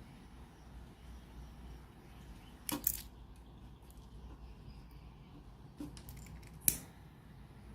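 Small handling clicks on a workbench over a low steady hum: a sharp click about three seconds in, a softer one a little before the end, and another sharp click near the end.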